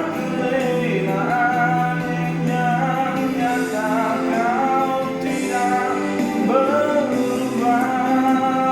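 A song: a voice singing long held notes with vibrato and sliding pitch over steady instrumental backing.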